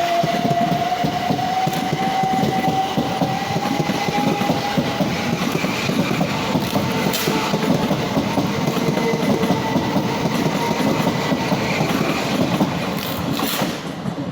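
Freight train hauled by a GB Railfreight Class 66 passing, its wheels clattering rhythmically over the rail joints. A faint tone rises in pitch over the first few seconds.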